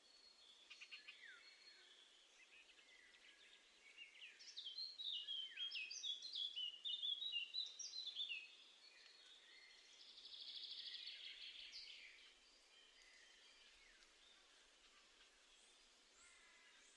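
Small garden songbirds singing: a few faint chirps, then a fast run of short high notes lasting about four seconds, followed by a buzzy trill of about two seconds.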